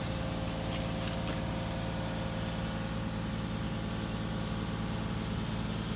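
Steady hum of a vehicle engine idling, even and unchanging, with a few faint clicks about a second in.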